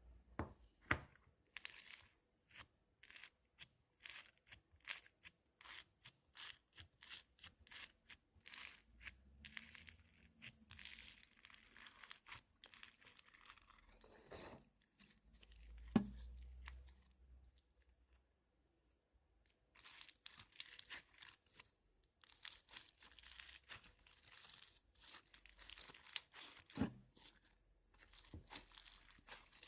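Crunchy slime being handled, giving dense runs of sharp crackles and pops, with a pause of about two seconds past the middle.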